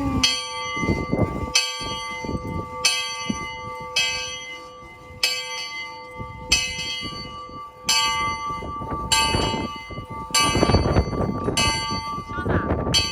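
A large bell rung by pulling its rope, struck about once every 1.2 seconds, roughly eleven times, each stroke ringing on into the next.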